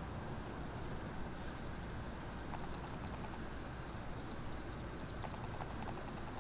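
A small bird's high twittering: quick runs of rapid chirping notes that rise and then fall in pitch, one about two seconds in and another near the end, with a few single chirps between. Under it runs a steady low background rumble.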